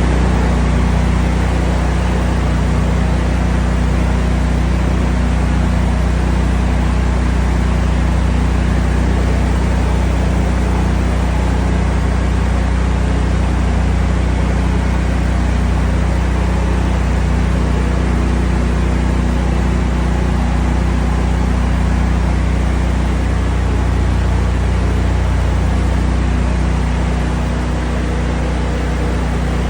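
An engine running steadily at one constant speed, with a loud low hum and a hiss over it, dipping slightly near the end.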